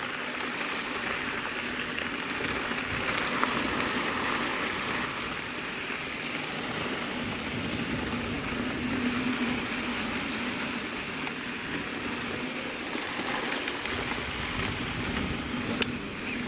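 Mountain bike descending a dirt trail: steady rushing noise of wind on the microphone and tyres rolling over dirt and gravel, with a single sharp tick near the end.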